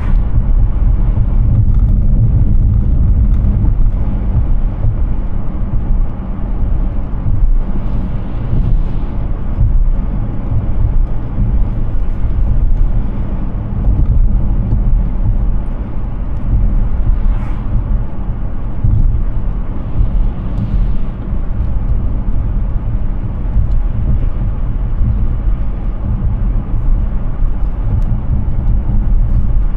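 Steady low road rumble and tyre noise of a Hyundai Ioniq 6 electric car driving, with no engine note, and a few brief swells of hiss.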